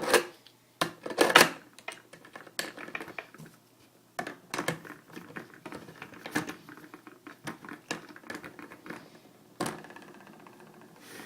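Hard clicks and knocks of a skateboard wheel, bearings and spacer being handled and fitted, with two sharp knocks in the first second and a half and lighter clicking after.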